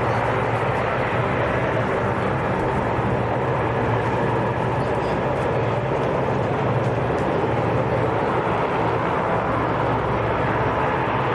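Aircraft engines running steadily: an even rush of noise over a low hum, with no rise or fall.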